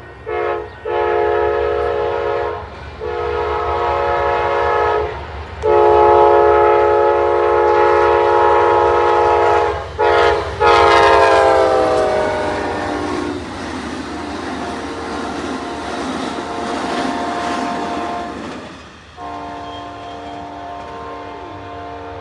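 The two-locomotive Amtrak Sunset Limited passenger train sounds its multi-chime horn in a string of short and long blasts as it approaches at speed. The last blast drops in pitch as the train passes. The rush and clatter of the passing cars follows, and the horn sounds again, lower in pitch, near the end.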